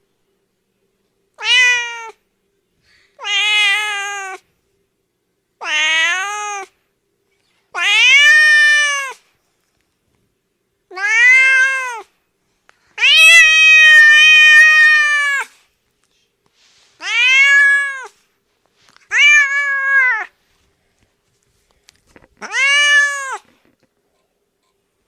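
A cat meowing nine times, each meow rising and then falling in pitch, with one long drawn-out meow about halfway through and dead silence between the calls.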